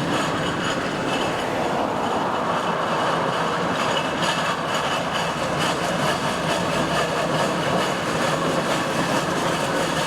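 Steam road locomotive running along the road, giving a steady mechanical clatter that does not let up.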